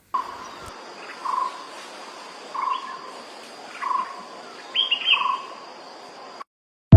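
A bird calling repeatedly, five short calls about a second and a quarter apart, each with a quick upward note, over a steady high insect drone and faint outdoor hiss. It cuts off suddenly near the end.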